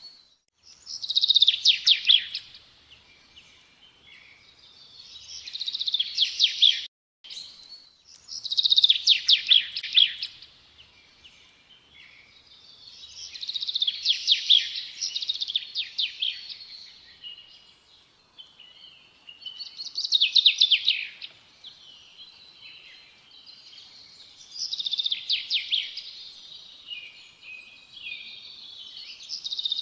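Songbird singing: high, fast trilled phrases, each a second or two long and dropping a little in pitch, repeated several seconds apart. The song breaks off briefly about seven seconds in.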